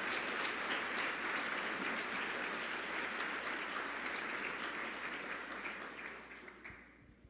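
A church congregation applauding, a dense, steady clapping that dies away near the end.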